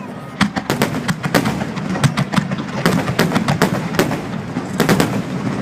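Fireworks display finale: aerial shells bursting one after another, many sharp bangs several a second, overlapping irregularly.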